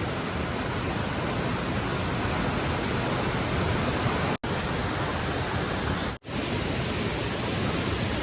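Rushing stream water, a steady hiss, broken by two brief total dropouts about four and a half and six seconds in.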